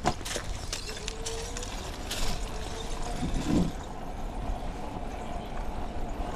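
Riding noise of a bicycle: a steady low rumble of wind on the microphone and rolling tyres, with several light clicks in the first two seconds or so.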